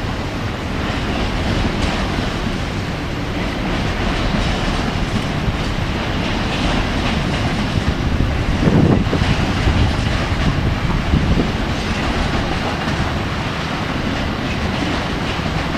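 A train passing at close range, its wheels running over the rails in a steady loud rush, with a brief louder swell about nine seconds in.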